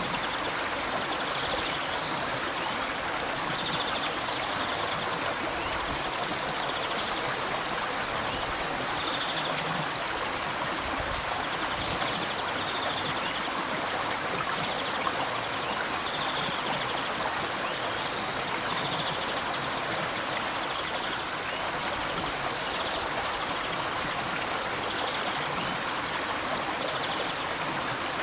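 River water flowing, a steady continuous rush.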